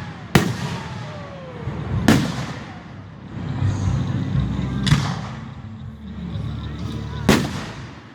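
Aerial fireworks shells bursting: four loud booms a few seconds apart, each trailing off in an echoing tail.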